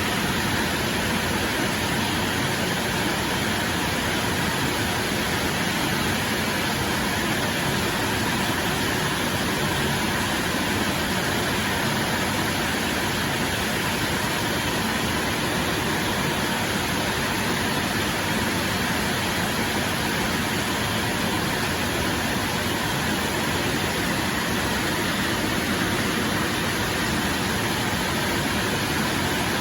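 Steady rain, an even hiss at a constant level.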